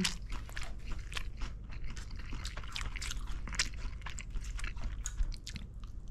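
Close-up chewing of crunchy fried food, likely a fried seaweed roll (gimmari): many irregular crisp crackles as the batter is bitten and chewed.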